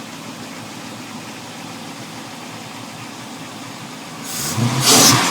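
Mercruiser 7.4 MPI big-block V8 boat engine idling steadily, then revved sharply about four seconds in.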